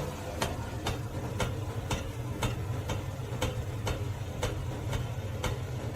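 Steady ticking, about two sharp ticks a second, over a low steady hum.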